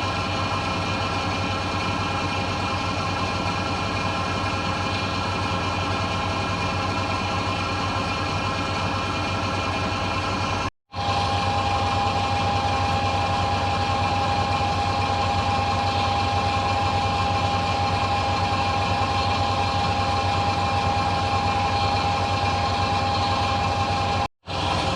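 1966 Bendix LA automatic washing machine in its final spin: a steady motor hum with a high whine, the drum spinning at speed. The sound drops out for a moment twice, about eleven seconds in and near the end, and after the first gap the whine is stronger.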